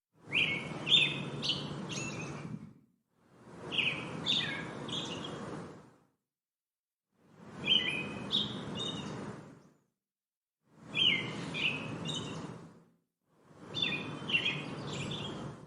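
Bird chirping: quick high chirps over a background hiss, in five separate bursts of about three seconds each with complete silence between them, the bursts nearly identical to one another.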